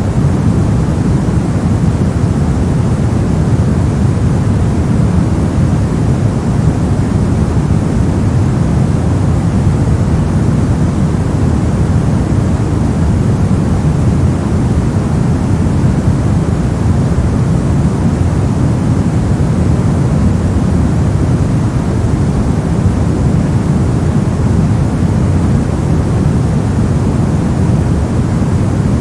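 Steady white-noise track for sleep: an even, unchanging rushing hiss, deepest and strongest in the low range and thinner in the highs.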